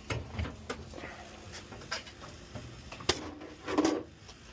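A few scattered knocks and clatters from a hand truck being fetched and handled, with a short pitched sound near the end.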